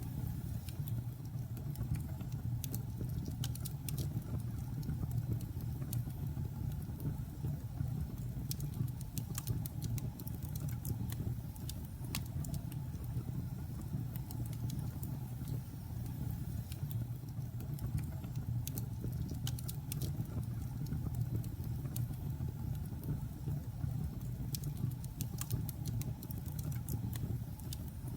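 Logs burning in a fireplace: frequent sharp, irregular crackles and pops over a steady low rumble of the fire.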